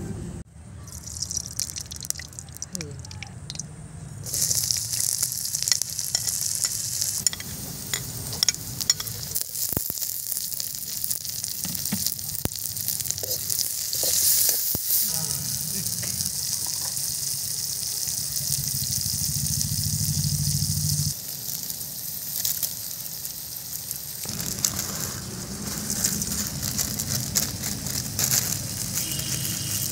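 Chopped onion, tomato and garlic sizzling in hot oil in a black iron wok. The steady frying hiss cuts in and out a few times.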